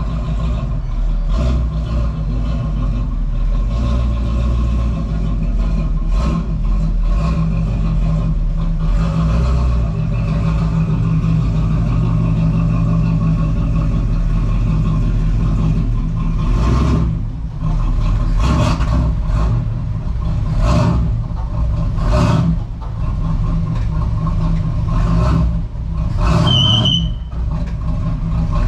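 1986 Camaro Z28's V8 running on an Edelbrock 1406 600 cfm carburetor soon after a cold start with the choke not connected. It runs steadily, then in the second half comes a string of short sharp bursts, with a brief high squeal near the end.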